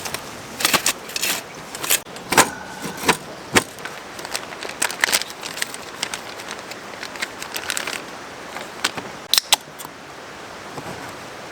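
Irregular sharp clicks and light metallic clatters, bunched in the first half and again briefly near the end, over the steady rush of a mountain stream.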